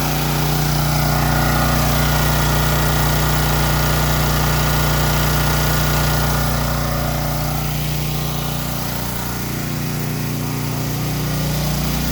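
Champion portable gasoline generator engine running steadily under load while it powers a house and a running 3.5-ton central air conditioner. The note eases slightly about two-thirds of the way through, then comes back up.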